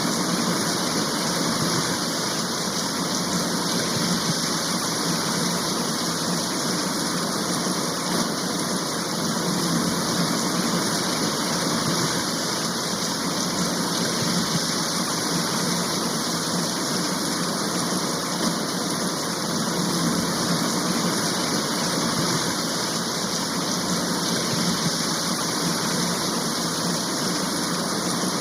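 Steady downpour of a heavy rain shower, an even hiss that holds at one level throughout.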